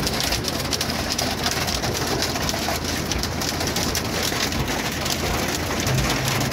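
Torrential rain pelting the roof and windscreen of a van, heard from inside the cab as a loud, dense, unbroken patter of drops.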